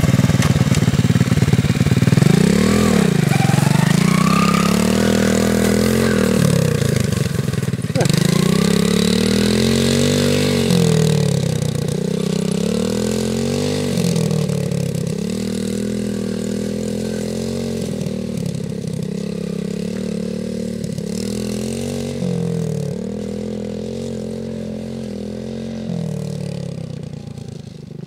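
Small dirt bike engine revving up and easing off over and over, roughly every two to three seconds, as it is ridden around in low gear. It slowly grows fainter as it moves away.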